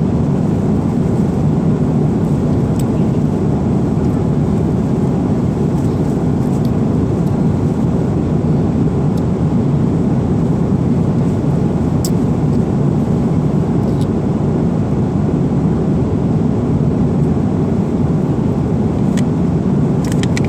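Steady cabin noise of an airliner in flight, with a few faint clicks.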